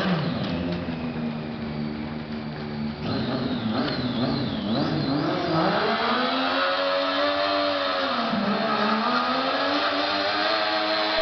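Triumph 675 three-cylinder sportbike engine revved hard during a burnout. The pitch dips and climbs again and again in the first half, then is held high with slow rises and falls.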